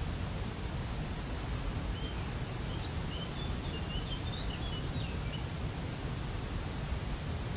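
Steady rush of a waterfall, with a songbird chirping a quick run of short notes for a few seconds in the middle.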